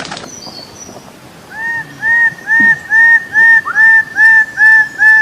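A bird calling a long, even series of short, honking notes, about two and a half a second, each slightly arched in pitch. It starts about a second and a half in, after a faint high whistle.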